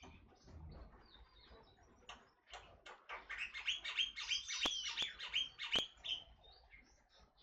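Forest oriole calling in a fast run of short, harsh chirping notes that grows loudest in the middle, with a few sharp clicks among them.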